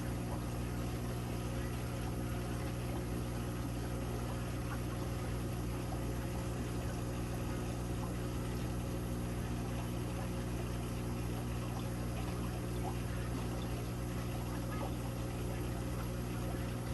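Aquarium filtration running: a steady low electrical hum with water bubbling and trickling, unchanging throughout.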